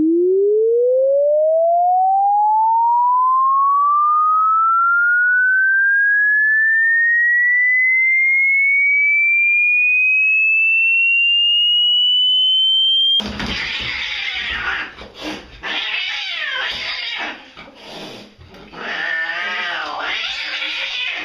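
A pure electronic tone glides steadily upward in pitch for about thirteen seconds, then cuts off abruptly. A domestic cat follows with a run of drawn-out yowls and meows that rise and fall in pitch.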